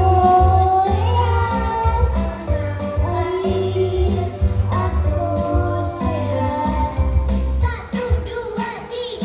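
Children singing a song together over backing music with a steady bass.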